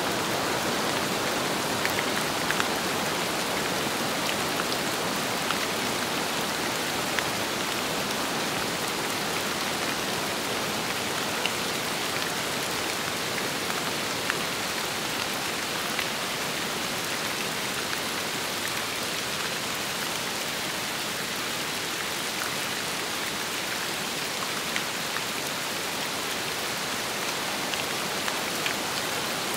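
Steady rain falling in wind, an even rushing hiss with scattered individual drops ticking close by.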